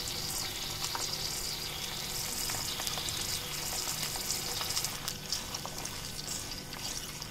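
Chicken gizzards frying in hot ghee in a small iron wok over low heat, a steady sizzling hiss. Near the end a wooden spatula stirs them, adding faint scrapes and ticks.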